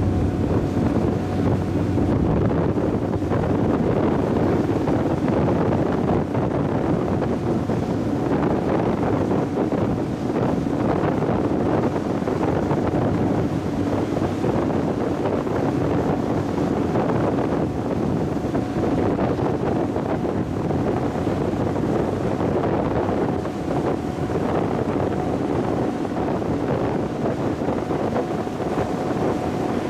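Wind buffeting the microphone and water rushing past the hull of the high-speed passenger ship Sun Liner 2 under way, over a steady engine hum.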